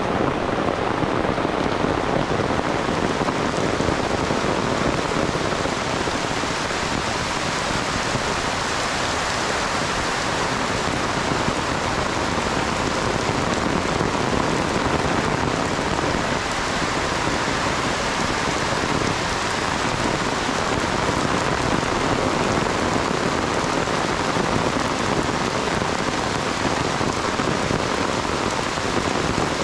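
Heavy rain, a steady downpour, with a dense, even hiss of drops that holds at a constant level.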